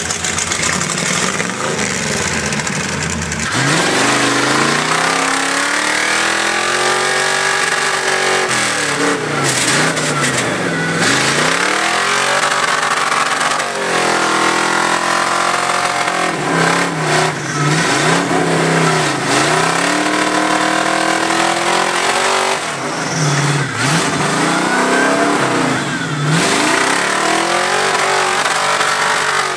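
Off-road 4x4 truck engine run hard, running fairly steady at first, then from about four seconds in revving up and dropping back again and again as the throttle is worked, the pitch rising and falling every couple of seconds.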